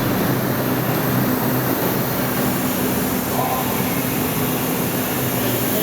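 Steady mechanical hum with a low droning tone running through it, unchanging throughout.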